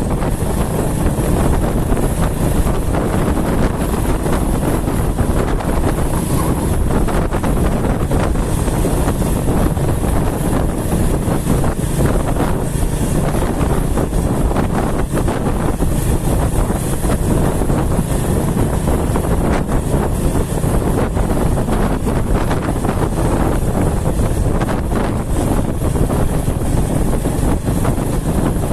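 Steady wind rushing over the microphone, mixed with the running noise of a moving vehicle.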